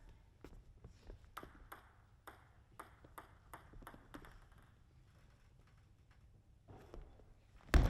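Table tennis ball bouncing, a quick series of light, sharp pings about three a second for the first four seconds or so. Then it goes quiet before a loud sharp hit near the end as play starts.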